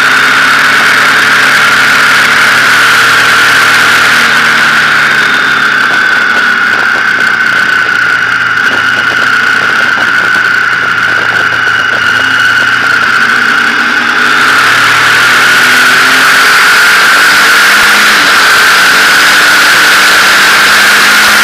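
Motorcycle engine running on the move, its note sliding up and down with the throttle and gears, under a loud steady high whistle and wind rush that grows louder about two-thirds of the way through.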